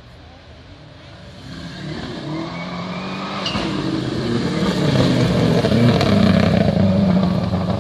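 Rally car approaching on a special stage, its engine revving and growing steadily louder, loudest near the end.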